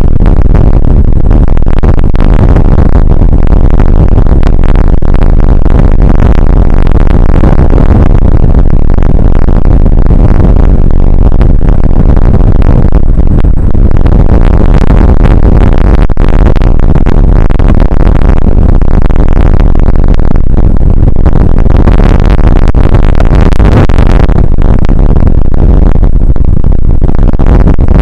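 Rain shower and wind on an outdoor weather camera's microphone: a constant, heavily overdriven rush of noise, heaviest in the low end, with many small crackles through it.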